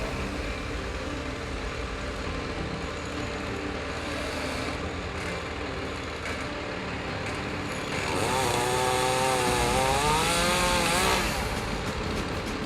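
A chainsaw running steadily, then revved up hard for about three seconds from around eight seconds in, its pitch dipping and rising again.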